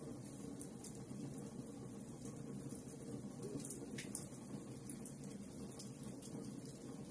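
Wood fire burning in a fireplace: a steady low rush of flames with scattered small crackles throughout and one sharper pop about four seconds in.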